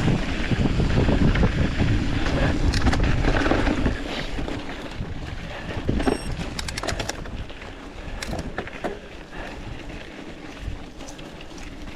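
Wind buffeting the microphone during a fast mountain-bike descent, a loud rumble for the first four seconds. It then drops to quieter tyre-on-dirt noise with scattered rattles and clicks from the bike.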